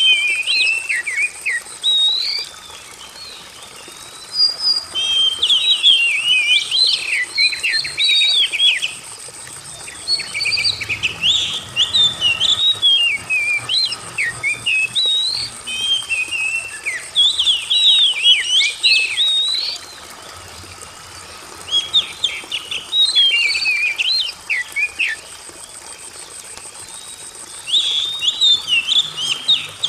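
Oriental magpie-robin (kacer) singing: several bouts of rapid, varied whistled phrases with pauses of a few seconds between them.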